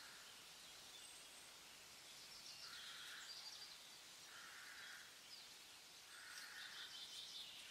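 Faint birdsong over a quiet outdoor background: short repeated chirping phrases from a few birds, about three seconds in and again near the end.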